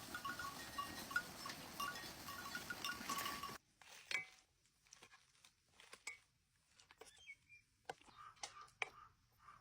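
A steady rushing kitchen noise that cuts off suddenly after about three and a half seconds, followed by scattered clinks and taps of utensils against dishes.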